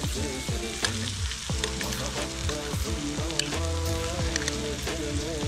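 Vegetables and home-canned turkey stew frying in a pan in the stew's own fat, sizzling and crackling while being stirred. Background music plays underneath.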